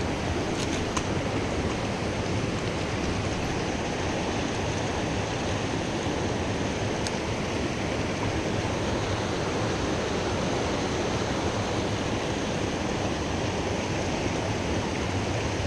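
Water rushing steadily over a small creek waterfall, an even unbroken hiss. A single sharp click about seven seconds in.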